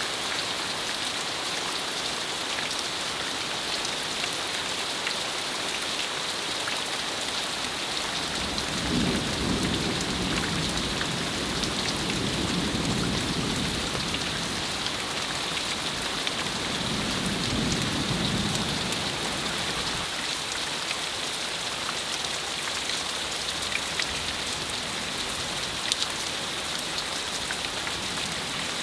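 Steady heavy rain falling in a hailstorm, with scattered small taps. Low rumbles of thunder come in about nine seconds in, lasting several seconds, and again about seventeen seconds in.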